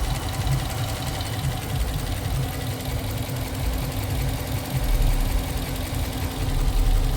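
Dodge Durango's 5.7 Hemi V8 idling with a steady light tick, which the owner thinks could be an exhaust leak or noisy injectors.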